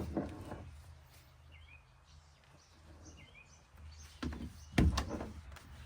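A few handling knocks and thumps, the loudest about five seconds in, over a faint low hum; a bird chirps faintly twice. No angle grinder is running.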